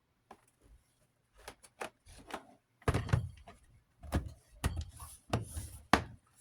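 Plastic housing and guard parts of a Duracraft 10-inch box fan knocking and clicking against each other as they are fitted together: a series of sharp knocks, the loudest about three seconds in.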